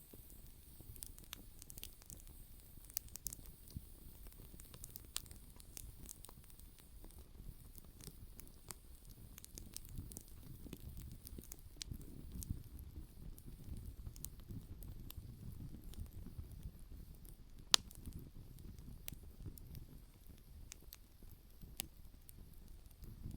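Open wood campfire crackling, with scattered small snaps and one sharper pop about two-thirds of the way through, over a soft low rumble.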